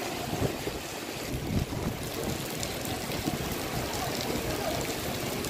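Heavy rain and strong, gusting storm wind, with the wind buffeting the microphone in uneven low rumbles.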